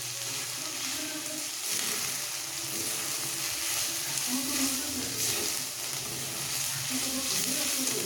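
Onion, capsicum and ginger-garlic paste sizzling in hot oil in a frying pan, a steady sizzle.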